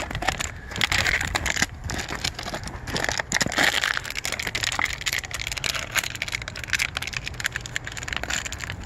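Footsteps crunching through packed snow, an irregular run of crisp crunches over a low rumble.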